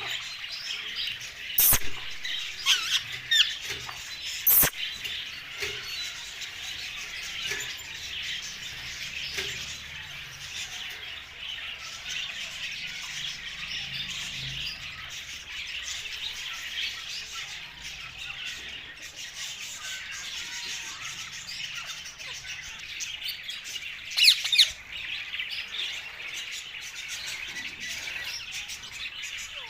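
Ringneck parrots chirping and calling continuously, with a few sharp, loud squawks about two and four seconds in and again near the end.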